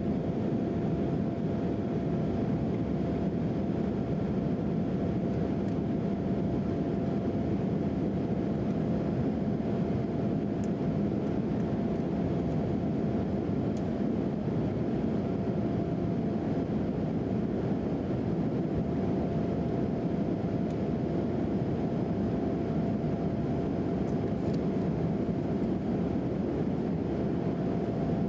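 Steady cabin noise of an Embraer E175 regional jet in flight: an even rush of turbofan engine and airflow noise with a faint steady hum.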